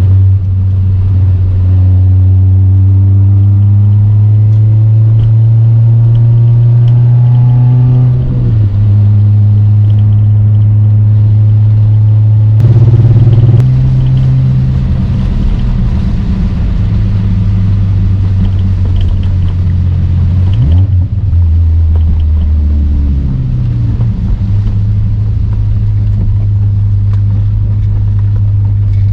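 Toyota 2ZZ-GE four-cylinder engine in an MR2 Spyder pulling the car along, its note rising through the revs and dropping back at gear changes several times, with road and wind noise. The engine is freshly built and being driven gently for break-in.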